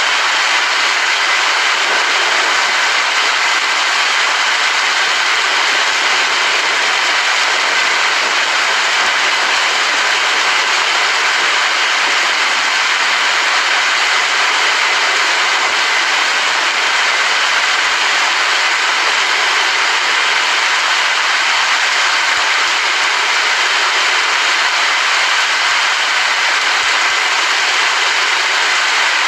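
Steady rain falling, a loud, even hiss that does not change, with no thunder.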